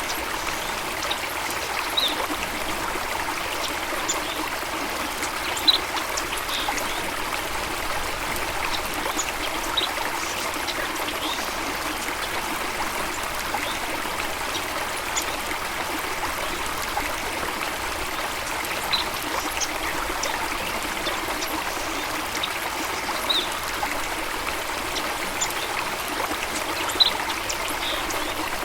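Running water with a steady trickling, babbling flow, like a small stream or waterfall. Short high-pitched blips come through it now and then, a handful of times.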